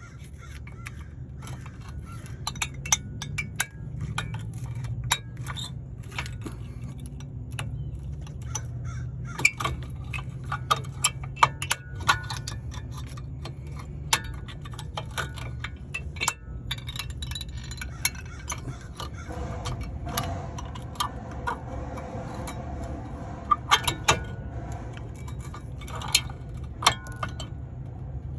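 Metal hand tools and brake parts clinking and tapping in irregular, sharp clicks, over a steady low hum.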